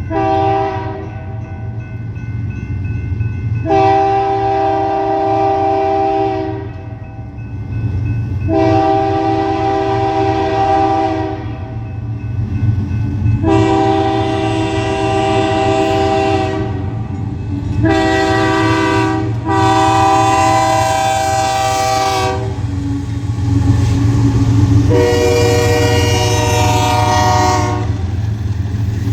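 Diesel locomotive horn sounding a series of long blasts, each about three to four seconds, over the steady rumble of the passing train.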